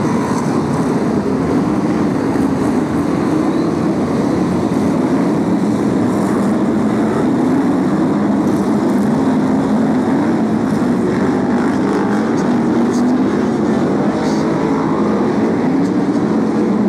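A pack of BriSCA F1 stock cars racing round the oval track, their big V8 engines running hard in one continuous, loud din whose pitch wavers gently as cars pass.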